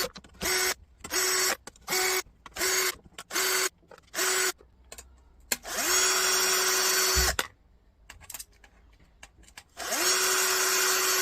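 Electric drill fitted with a small nut-driver bit, spinning up in short bursts to unscrew small nuts: about eight quick pulses of around half a second, then two longer runs of about a second and a half, one in the middle and one near the end.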